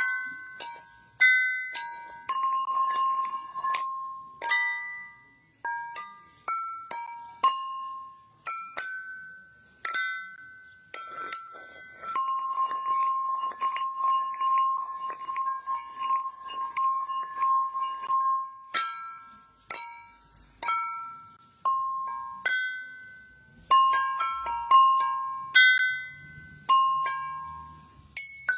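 Struck tuned percussion playing a slow, sparse melody: single high bell-like notes that ring and fade away. In the middle one note is struck over and over in a quick tremolo for about six seconds, and near the end the notes come closer together.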